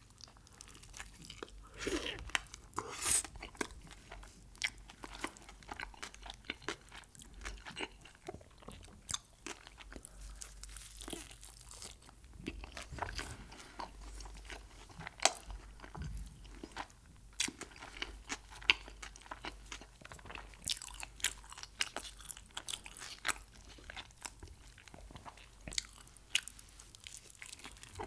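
A person biting and chewing crunchy food close to the microphone, with irregular crisp crunches throughout.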